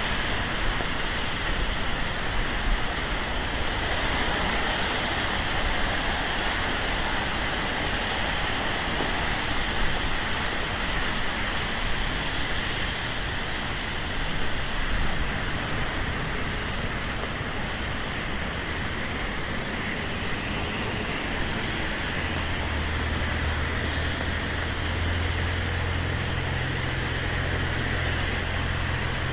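Steady hiss of rain on a city street, mixed with traffic on wet pavement. From about two-thirds of the way in, a low, steady engine hum from a large vehicle joins it.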